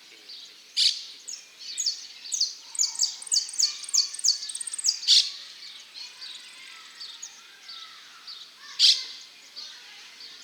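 Male saffron finch (dorado) singing: sharp chirps, then a fast run of short, high descending notes over about three seconds, and one loud note near the end.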